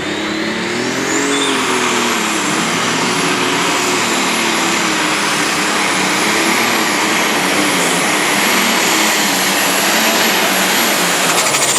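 Super stock pulling tractor's turbocharged diesel engine running at full throttle under load during a pull. It is loud and steady, with the engine pitch climbing about a second in and then wavering.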